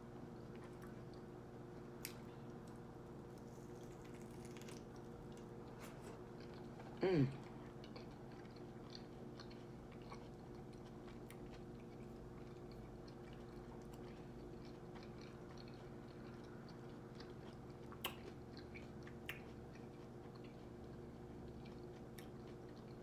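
Soft, close-up chewing and biting of a veggie wrap, with faint wet mouth clicks over a steady low hum. A short, louder falling sound about seven seconds in.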